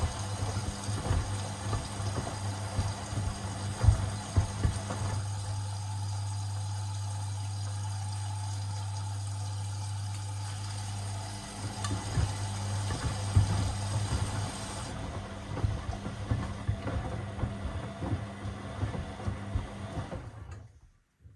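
Washing machine running with sneakers in the drum: a steady motor hum with irregular knocks and thumps as the shoes tumble, quieter and smoother for a few seconds in the middle. It cuts off suddenly near the end.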